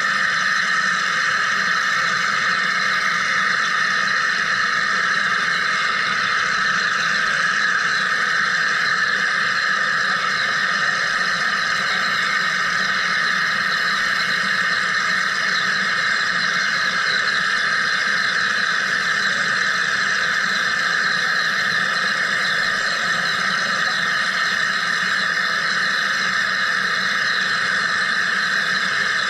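Wire EDM machine running steadily while cutting: a constant, unchanging high-pitched hiss with a fainter hum underneath.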